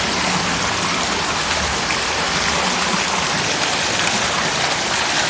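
Heavy rain falling in a steady hiss, with no letup.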